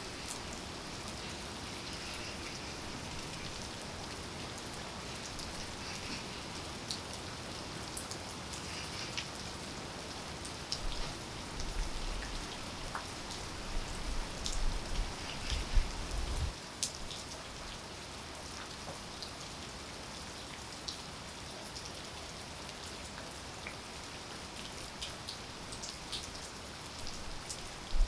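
Steady rain falling, with many distinct single drops ticking close by. A spell of low rumbling with louder bumps runs from about a third of the way in to a little past the middle.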